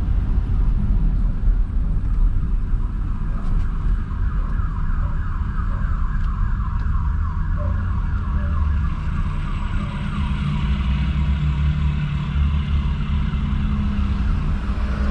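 Steady low rumble of a car on the move, with a faint, fast-repeating warbling tone above it.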